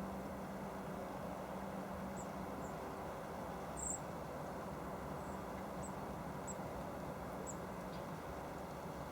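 Garden ambience: a steady background rush with a scattering of brief, very high-pitched chirps from small birds, the loudest about four seconds in.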